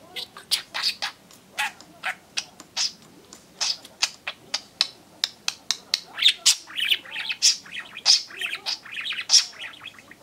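Budgerigar chattering: a string of short, sharp squawks and chirps that turns into quick warbling runs in the second half.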